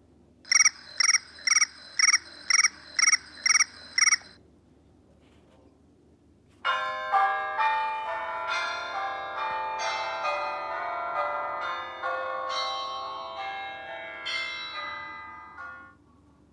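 iPhone iOS 7 ringtones and alert tones playing: first eight short identical chiming beeps about half a second apart, then after a pause a bell-like melodic ringtone of many notes lasting about nine seconds and fading out near the end.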